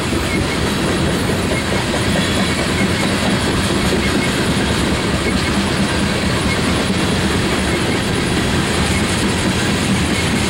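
Loaded coal gondola cars of a freight train rolling past on steel wheels, a steady, unbroken running noise.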